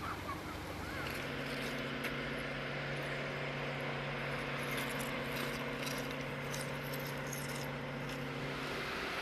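A steady engine hum over an even background rush. The hum starts about a second in and stops near the end.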